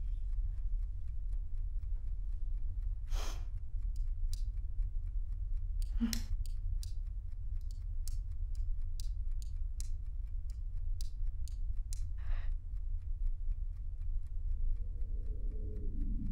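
A clock ticking evenly at about two ticks a second over a steady low hum, with three short breathy rushes of noise. A low tone swells in near the end.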